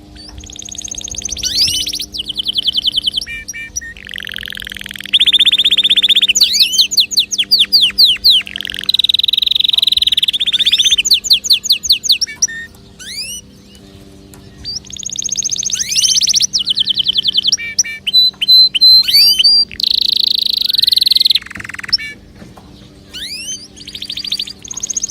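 Canary singing a long song of fast trills and rolling repeated phrases, high-pitched, broken by short pauses about halfway through and again near the end.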